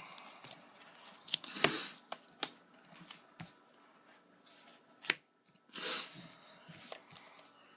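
Trading cards being handled on a table: a few brief rustles as cards slide and are placed, and a couple of sharp taps.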